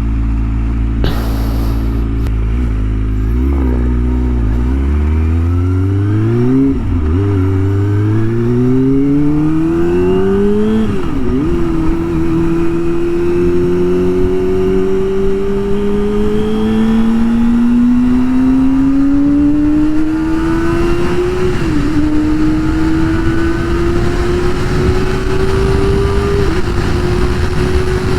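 Kawasaki ZX-25R's 250 cc inline-four running through a Yoshimura R-77 full exhaust, accelerating hard: the pitch climbs steeply and drops at each upshift, several quick shifts in the first ten seconds or so, then longer, slower pulls in the higher gears with two more shifts near the end.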